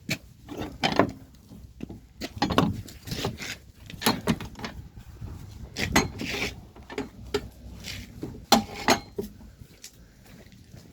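Irregular knocks and clatters of hard objects being handled, like tools and fittings picked up and set down.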